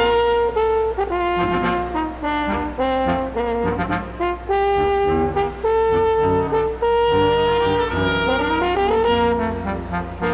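Brass ensemble of trumpets and trombones playing a Christmas piece in held, chordal notes, with a rising glide about eight seconds in.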